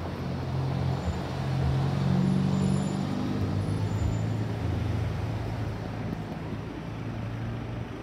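Mercedes-AMG GT Black Series twin-turbo V8 running at low revs as the car pulls away and drives off, a low steady engine note that drops a step in pitch about three and a half seconds in. It is loudest around two seconds in, over street traffic.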